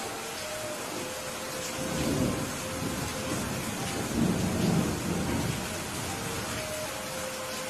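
Steady rain with thunder rumbling: a low roll swells about two seconds in and a louder one follows around four to five seconds in, over the constant hiss of the rain.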